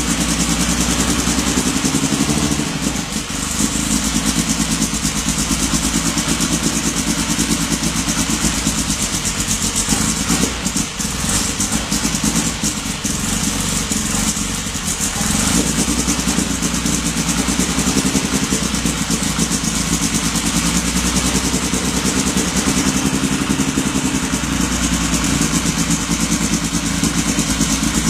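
Freshly rebuilt Volvo B230 2.5-litre eight-valve turbo four-cylinder running at idle on its first startup, a steady engine note that dips briefly about three seconds in and again a little past the middle.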